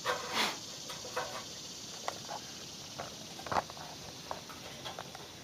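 Scattered light knocks and rustles, the loudest about three and a half seconds in, over a steady high insect chirr.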